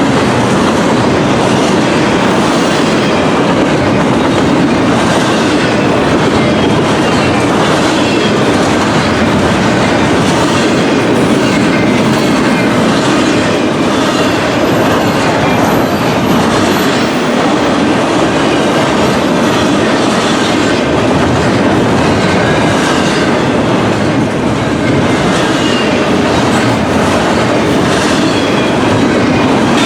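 A long train of railroad cars rolling past at close range: a steady rumble of steel wheels on rail, with a continuous clickety-clack as the wheels cross rail joints.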